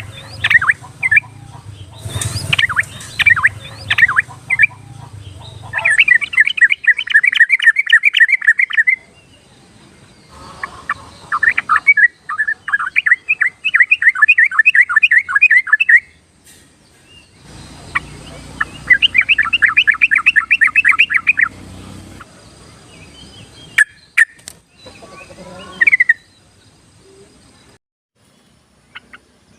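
Yellow-vented bulbul (cucak trucuk) song: scattered chirps, then three runs of rapid repeated notes a few seconds each with pauses between, and a few short calls near the end. It is a lure recording of the kind played to draw a shy caged trucuk into singing.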